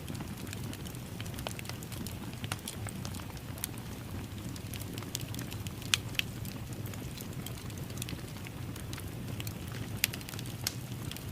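Wood fire crackling in a fireplace: scattered snaps and pops over a low steady rumble, with two louder pops about six and ten seconds in.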